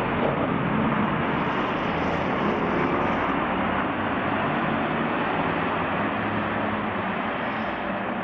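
Steady rumbling noise of a vehicle running, with a low engine hum.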